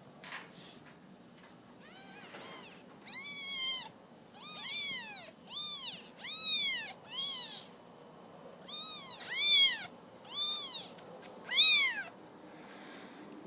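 Young kittens mewing over and over: about ten short, high-pitched calls, each rising then falling in pitch, the loudest near the end.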